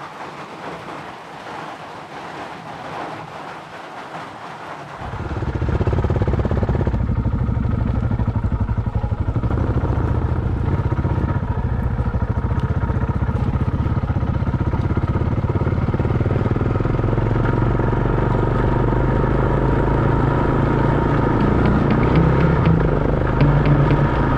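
A KTM single-cylinder enduro motorcycle engine starts about five seconds in and then runs steadily at idle.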